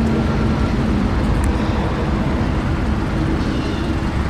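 Steady low engine rumble with a faint steady hum and no change in pitch.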